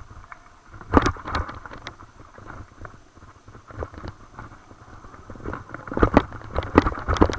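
A bike jolting over rough trail ground: tyres and a low wind rumble, with bursts of rattling knocks about a second in and again near the end.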